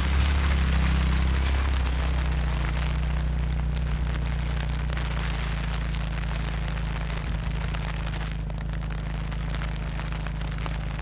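Freezing rain falling: a dense, steady crackling patter of drops hitting, over a steady low hum.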